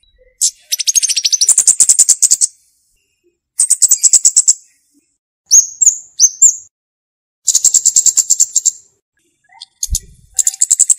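A flowerpecker calling: high-pitched, rapid ticking trills about a second long, repeated four times with short pauses, and a few short sliding notes between them.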